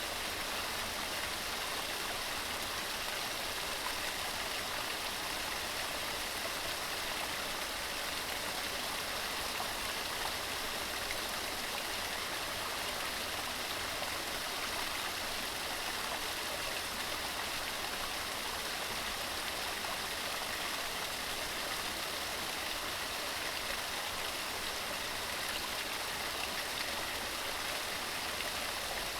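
Waterfall tumbling over rocks: a steady, even rush of water that is bright rather than deep, with little low rumble.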